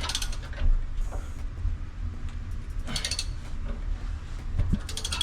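Ratcheting cast iron pipe cutter being worked on a cast iron drain pipe: short bursts of rapid ratchet clicks, about every two to three seconds, over a low rumble.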